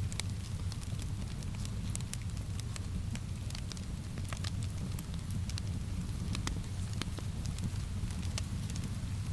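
Wood fire crackling, with irregular sharp pops and snaps over a steady low rumble, mixed with a soft hiss of rain.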